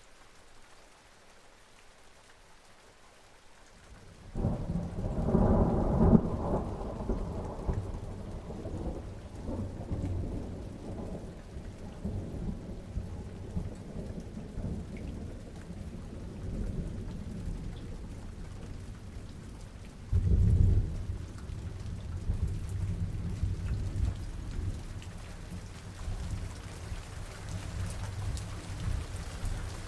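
Steady rain falling, with thunder: a loud peal breaks in about four seconds in and rolls away slowly, and a second peal follows about twenty seconds in, rumbling on under the rain.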